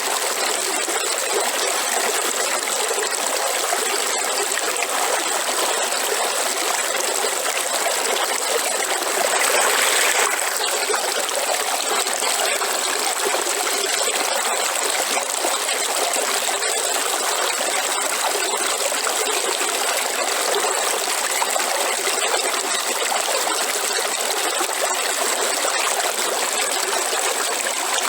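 River water flowing and trickling steadily, with a brief louder rush about ten seconds in.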